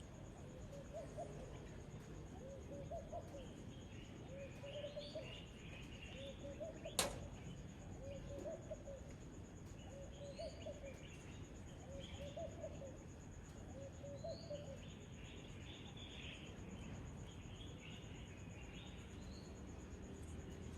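Birds calling outdoors in the morning: a low warbling call repeated about once a second, with bursts of higher chirping twitters over a faint steady insect drone. A single sharp click sounds about seven seconds in.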